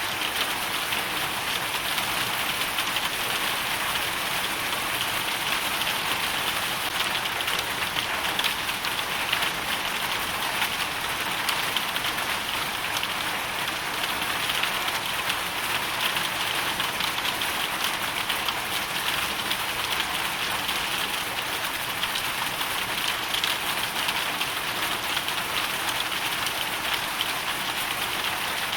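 A steady hailstorm: dense hail and rain hitting a surface, an even hiss made of countless tiny ticks that does not let up.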